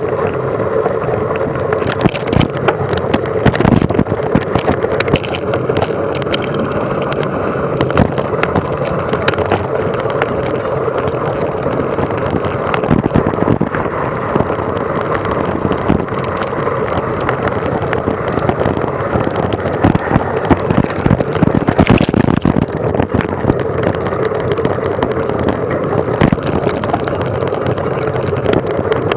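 Steady wind rushing over the microphone of a moving camera, with frequent knocks and rattles as it is jolted over rough ground, busiest about 2 to 4 seconds in and again about 20 to 22 seconds in.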